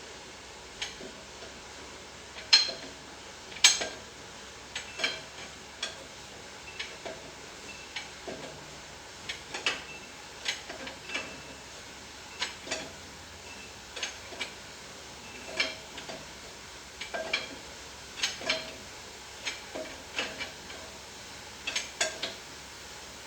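Irregular light metallic clinks and knocks, roughly one or two a second, some with a short ring. The loudest two come a few seconds in. No engine is running.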